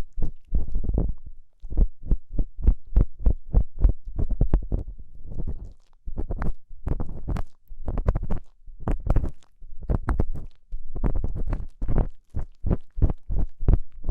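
Ear-cleaning tool scraping and rubbing in an ear right at the microphone: quick, short scratchy strokes a few times a second, with a brief pause about halfway through.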